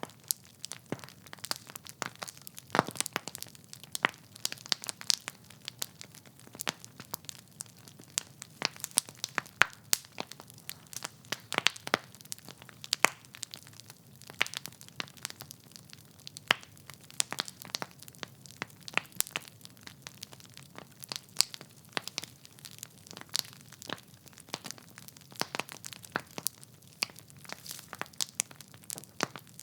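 Wood fire in a fireplace crackling: burning logs snap and pop irregularly, several times a second, over a soft steady hiss of flame.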